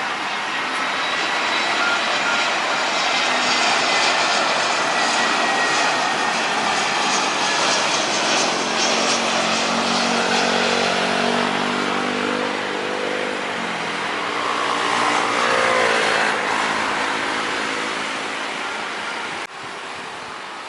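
Airliner's engines at takeoff power as it accelerates down the runway past the listener: a loud, steady rush with a high whine, the engine tones falling in pitch about halfway through as it goes by. The level drops sharply near the end.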